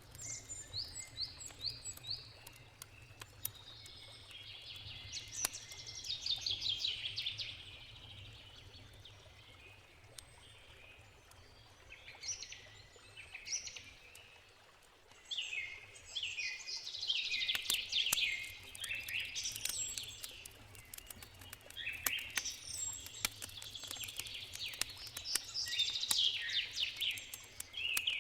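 Songbirds singing and chirping in repeated short phrases, loudest in the second half, over scattered sharp crackles and pops from a wood campfire.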